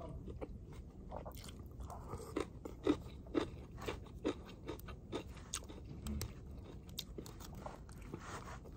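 A person chewing a mouthful of crisp shredded cabbage and carrot close to the microphone, crunching in a steady rhythm of about two bites a second.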